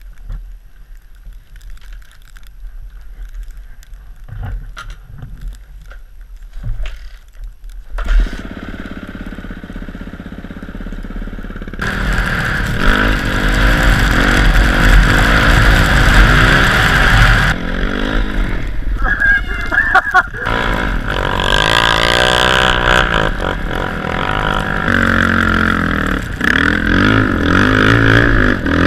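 Dirt bike engine: quiet with a few knocks at first, then from about eight seconds in the engine runs and gets much louder around twelve seconds in, revving up and down.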